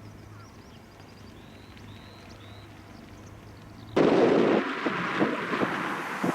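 Faint small-bird chirps over a low steady hum, then about four seconds in a loud rushing noise with irregular knocks cuts in abruptly.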